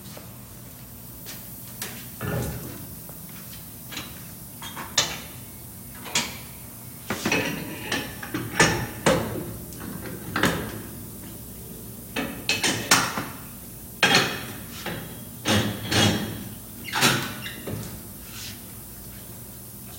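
Irregular sharp clanks and knocks of tire work at a wheel balancer, a dozen or so coming in clusters, some ringing briefly, over a faint steady low hum.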